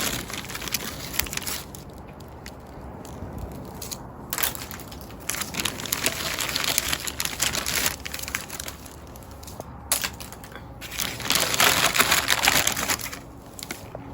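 Crinkling and crunching of a plastic packet of crackers and snacks being handled and broken up, in several bouts of a second or two with short quiet gaps.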